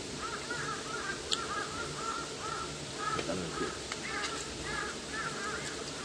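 Birds calling: a steady run of short, arched calls, several a second, with a sharp click about a second in.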